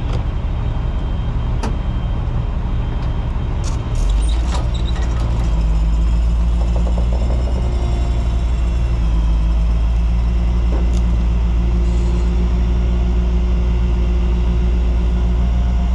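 Semi truck's diesel engine running steadily, its low rumble growing louder about four seconds in and holding there, with a few clicks and knocks in the first few seconds.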